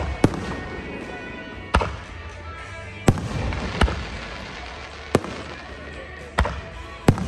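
Aerial fireworks shells bursting, about eight sharp bangs at irregular intervals of roughly a second, over music playing underneath.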